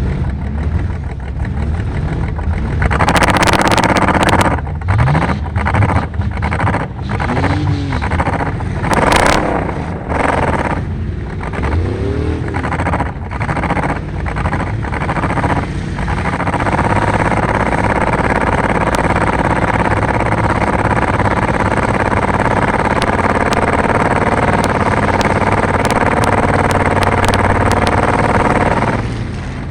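Car engine revving hard in a series of surges, then held at a steady high pitch for about twelve seconds before easing off near the end.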